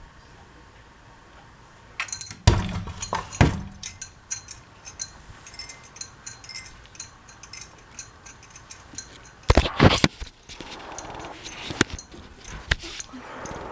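Harbor Breeze Lakeside II ceiling fan running on high with a faint steady hum; from about two seconds in, many irregular metallic clicks and clinks, with several louder knocks.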